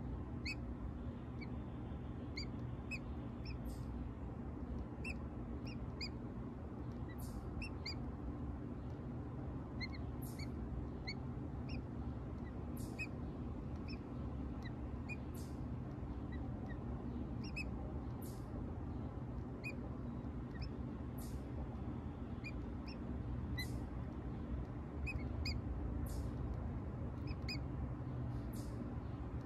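Short, high-pitched bird chirps and peeps scattered irregularly, a few each second, over a steady low rumble.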